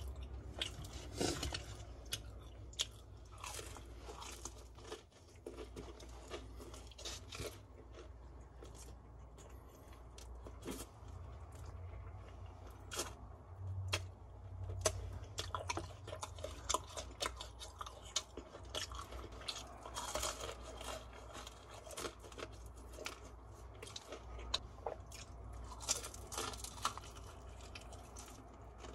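Crunching and chewing of crispy seasoned fried chicken: irregular crisp bites and crackles as the coating is bitten and chewed.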